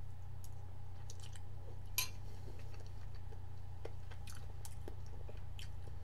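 Close-up mouth sounds of someone chewing a mouthful of miso soup, with small wet clicks. A metal spoon clinks once against a glass bowl about two seconds in. A steady low hum runs underneath.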